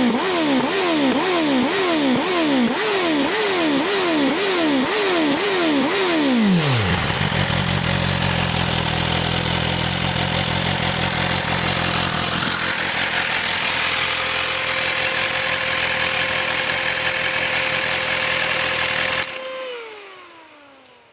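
BMW S1000RR inline-four engine through an Akrapovič titanium exhaust, revved in quick throttle blips, about one and a half a second. After about seven seconds it settles to a steady idle. Near the end the engine cuts off and the sound falls away, with a whine dying down.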